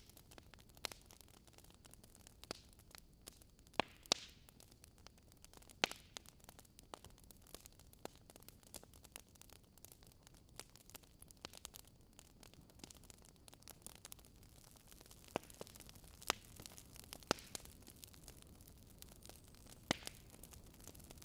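Campfire crackling: irregular sharp pops and snaps of burning wood over a faint low hiss, a few louder pops standing out.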